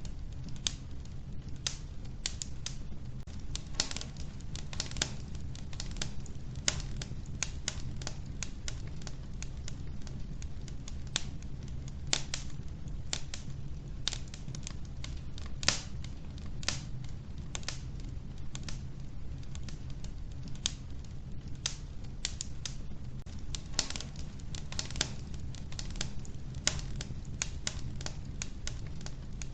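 Wood fire burning in a wood-burning stove: a steady low rumble of flames with irregular sharp crackles and pops from the logs.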